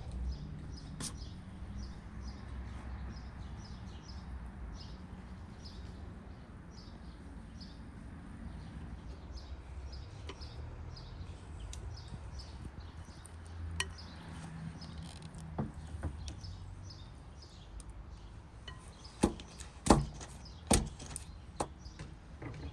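Small birds chirping in quick repeated calls over a low background rumble. Near the end, a handful of sharp knocks, the loudest about twenty seconds in.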